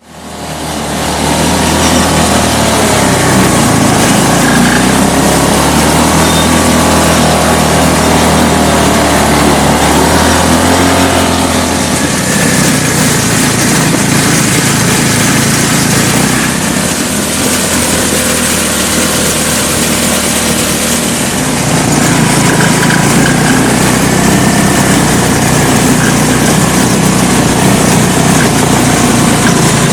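Small engine of a homemade quad bike running under way, loud and continuous, its note rising and falling with the throttle; it drops back about twelve seconds in and picks up again near the twenty-second mark.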